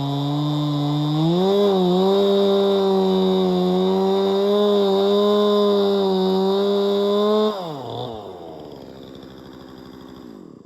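Chainsaw engine running at high revs, its pitch stepping up about a second and a half in and then holding steady. About seven and a half seconds in, the throttle is released and the engine winds down, fading until the sound cuts off abruptly at the end.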